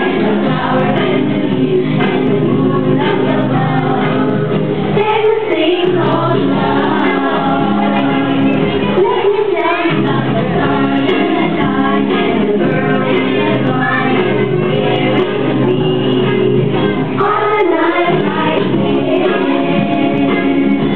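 A group of voices singing a song together with accompaniment.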